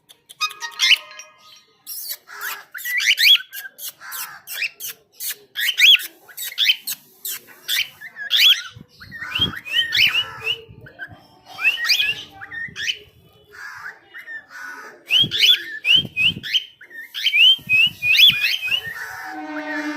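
Bird chirping and squawking: many short, rising calls repeated over and over, mixed with sharp clicks. A steady whistled note begins near the end.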